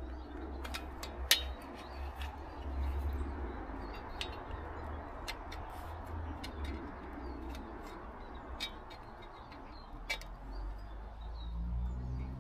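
Birds calling over a low rumble, with scattered sharp clicks; the loudest click comes a little over a second in.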